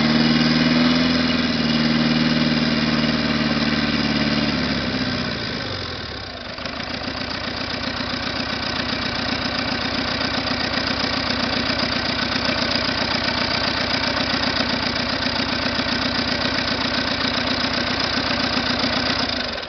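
Caterpillar 3114 four-cylinder diesel engine on a test run, held at high revs, then throttled back about five seconds in and settling into a steady idle with an even pulse.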